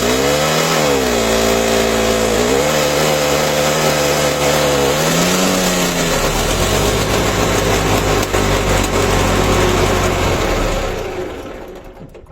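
An engine running and revved about three times, its pitch rising and falling, then holding a steady low note before dying away near the end.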